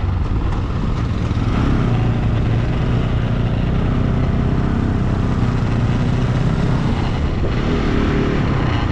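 Motorcycle engine running steadily while riding, over a constant rush of road noise.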